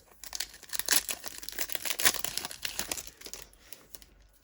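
A baseball card pack's wrapper being torn open and crinkled by hand, a dense crackling that is loudest about one and two seconds in and dies down near the end.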